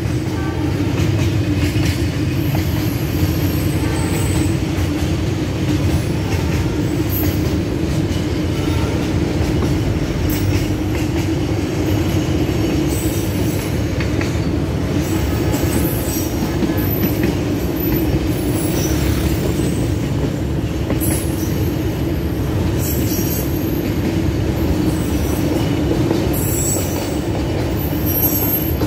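A long freight train rolling past: a steady rumble of steel wheels on rail, with brief high wheel squeals now and then.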